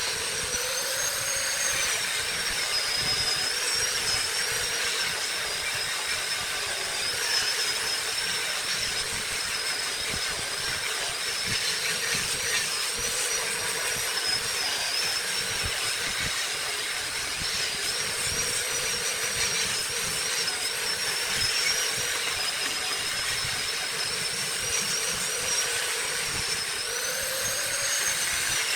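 Wood lathe running: a high whine that wavers slightly in pitch over a steady hiss, with a brief rise in pitch about a second in and again near the end.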